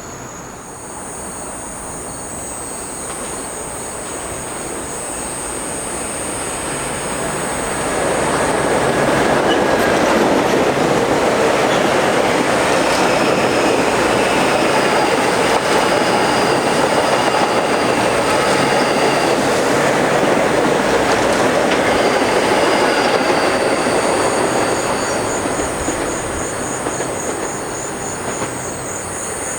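Passenger train passing at speed, the rumble of wheels on rail building up about a quarter of the way in, staying loud through the middle and fading away near the end.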